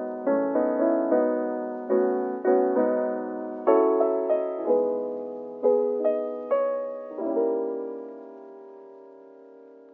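Slow, gentle piano music: notes and chords struck every half-second to a second, each dying away, ending on a held chord about seven seconds in that fades out near the end.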